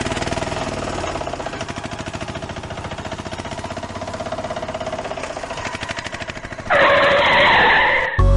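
A small vehicle engine runs with a fast, even putter. About seven seconds in, a loud skid-like screech breaks in and cuts off abruptly just before the end.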